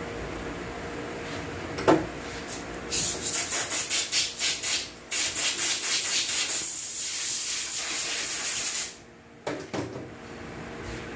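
A pressurised spray hissing, high-pitched, first in a quick run of short bursts (about five a second), then a steady hiss for about four seconds that cuts off sharply. There is a single knock about two seconds in, and a couple of clicks near the end.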